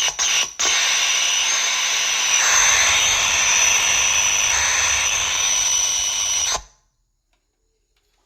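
A small power tool's motor running, with a high whine over a hiss: a few short stops and starts, then a steady run of about six seconds that cuts off suddenly.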